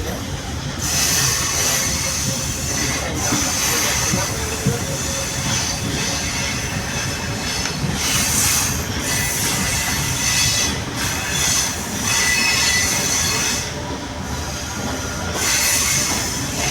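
Sri Lanka Railways Class S11 diesel multiple unit running on the rails, its wheels squealing over steady rail noise that swells several times.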